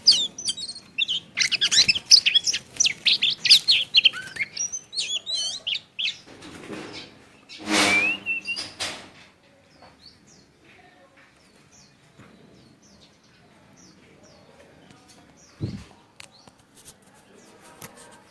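Caged songbirds singing: a dense run of fast, high chirps and warbles for the first few seconds, a louder call about eight seconds in, then fainter scattered chirps. These are decoy birds in trap cages, in full song. A single low thump comes near the end.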